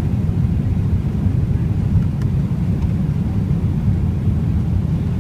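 Steady low rumble of airflow and engine noise inside the cabin of a Boeing 777-300ER airliner.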